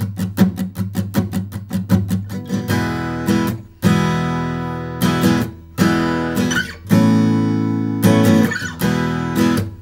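Acoustic guitar strumming: a fast run of short strokes, about seven a second, then full ringing chords from about two and a half seconds in, each cut off sharply every second or two as the strings are damped between strokes.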